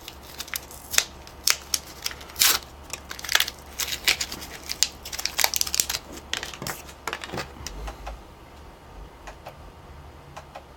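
Irregular small clicks and taps of hands handling a Radio Shack adapter plug and power tip, fitting the plug into the tip. The clicks are busiest for the first seven seconds or so, then thin out.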